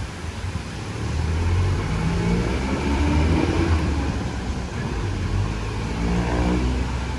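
Motor vehicle traffic passing close on a city street: an engine's low rumble swells about a second in and its pitch rises and falls as vehicles go by, over a steady hiss.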